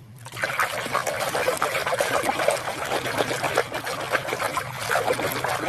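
Water splashing and trickling steadily as a muddy toy animal figure is washed by hand.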